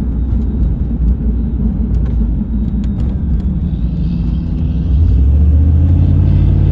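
Cummins diesel engine running through a 7-inch straight exhaust, a deep rumble; about five seconds in it gets louder and settles into a steady engine note.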